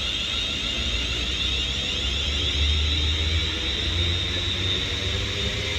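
Two coupled Class 350 Siemens Desiro electric multiple units pulling away, their traction inverters and motors whining in several steady tones, some rising slowly as the train gathers speed, over a low rumble.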